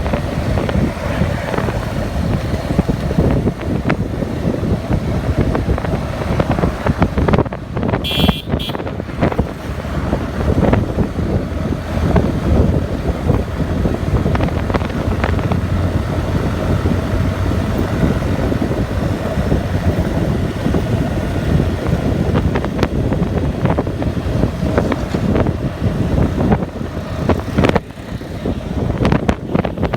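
Motorcycle riding along a highway: steady engine and road noise with wind buffeting the microphone, and passing traffic. A vehicle horn honks briefly about eight seconds in.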